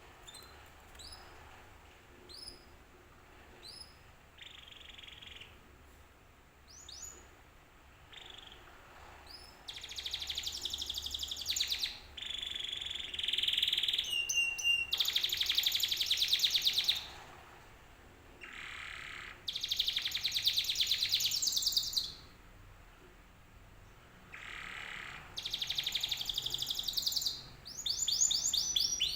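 Domestic canary singing: sparse short rising chirps at first, then from about ten seconds in, loud rapid rolling trills in long phrases with brief pauses between them.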